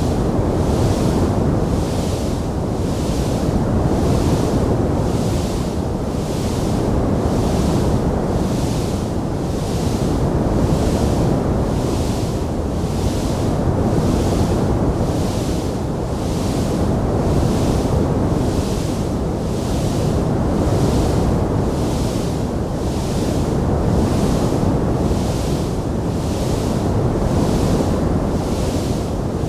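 Fire in a fireplace giving a steady low rushing roar, with a soft hiss that swells evenly about once a second; no distinct crackles or pops stand out.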